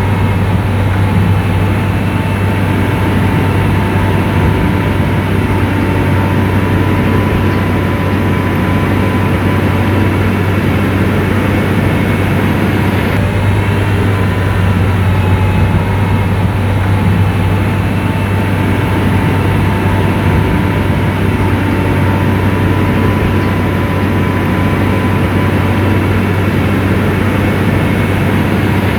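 Diesel engine of an SDLG motor grader running steadily: a loud, deep, even hum with a faint whine above it.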